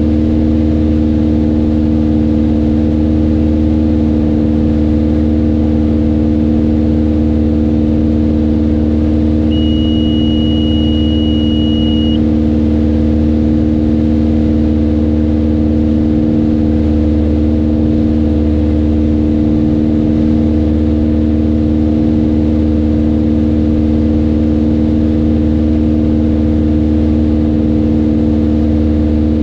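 Mooney M20J's four-cylinder Lycoming engine and propeller running at a steady power setting, a loud, even drone. About ten seconds in, a high steady beep sounds for about two and a half seconds.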